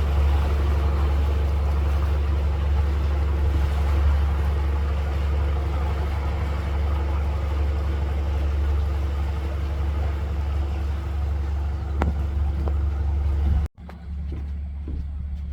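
Express boat's engine running steadily with a deep hum and a wash of water and wind noise. Near the end it cuts off abruptly, leaving a quieter low rumble.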